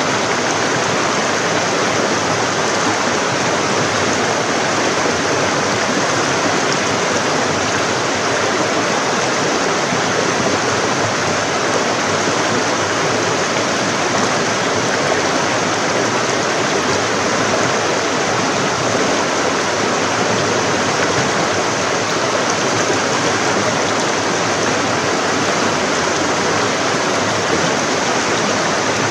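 Forest stream rushing over rocks: a steady, unbroken water sound.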